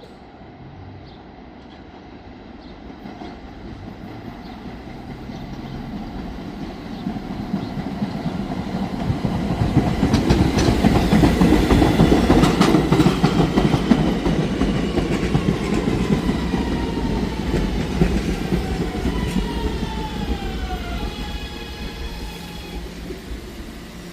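Staten Island Railway R211S train pulling into a station. The wheels rumble and clack over the rail joints, growing loud near the middle. The electric propulsion's whine then falls in pitch in several tones as the train brakes, settling into a steady hum once it stops.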